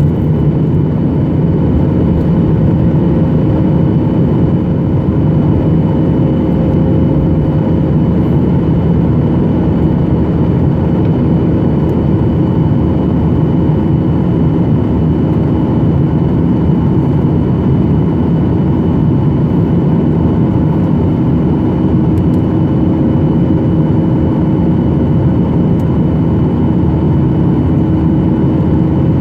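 Boeing 737-800's CFM56 jet engines and airflow heard inside the cabin: a loud, steady rush with several steady engine tones running through it.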